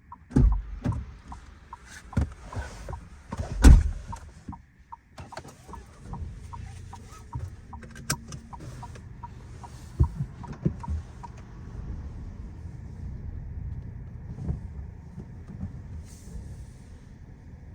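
Inside a VW Golf 1.0 TSI: a run of knocks and thumps, the loudest about four seconds in, like the cabin being handled and shut. From about five seconds the car's three-cylinder engine runs with a low, steady rumble. A light, regular ticking runs underneath for the first ten seconds or so.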